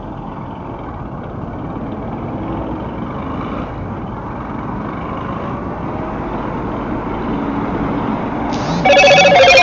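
Steady city traffic and engine rumble heard from a motorcycle riding in a jam, slowly growing louder. Near the end a vehicle horn sounds loudly, held for about a second on two notes.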